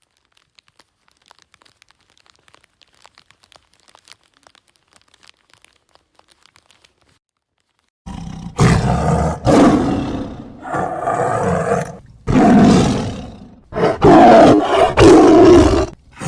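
Big cat roaring: a run of loud, rough roars one after another in the second half, after several seconds of faint scattered ticks.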